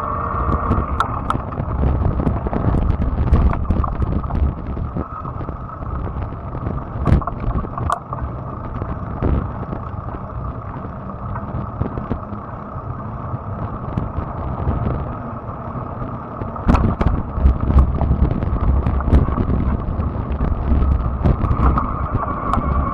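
Fat-tire electric bike riding along, with wind buffeting the microphone over the rumble of the tyres and scattered knocks and rattles. A steady high whine from the bike is strong at first, fades in the middle and comes back near the end.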